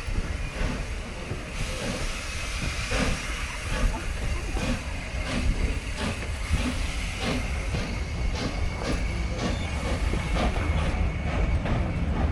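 Train pulling out of the station: a steady low rumble with many irregular clicks and clanks as it moves off.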